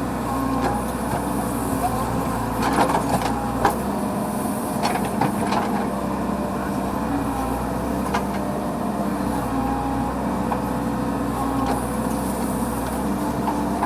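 A heavy machine's diesel engine running steadily under work, with scattered knocks and clanks over it.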